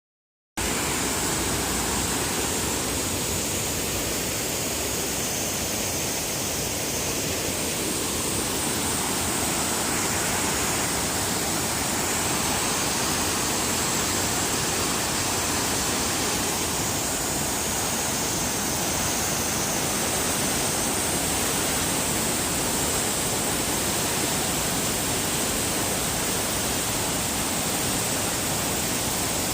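Waterfall: a steady, unbroken rush of falling water that cuts in suddenly about half a second in.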